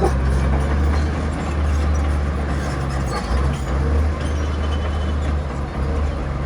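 Heavy diesel earthmoving machinery running steadily with a deep, loud engine drone.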